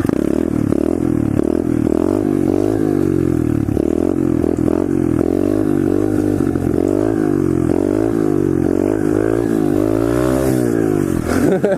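Pit bike engine revving up and down over and over, its pitch rising and falling roughly once a second, with a longer rise about ten seconds in. The throttle is being worked hard in first gear for wheelie attempts.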